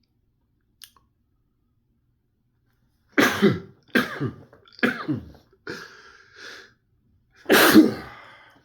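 A man sneezing. There are three short bursts about a second apart, then a softer sound, then a loudest burst near the end.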